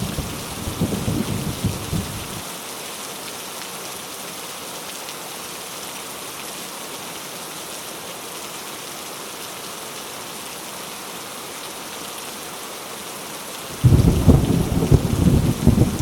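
Heavy rain falling as a steady hiss, with rolling thunder rumbling low and uneven; the thunder stops abruptly about two and a half seconds in, leaving only the rain, and comes back suddenly near the end.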